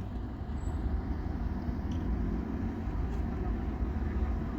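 Scania K280UB city bus running, a steady low engine and road rumble.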